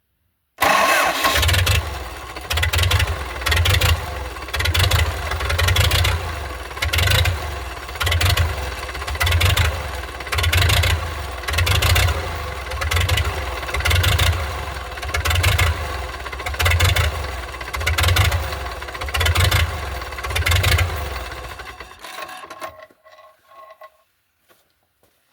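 A U650 tractor's diesel engine starting for the first time after a major overhaul. It catches at once, then runs with an even rise and fall a little more than once a second. About 22 seconds in it is shut off and runs down over a second or two.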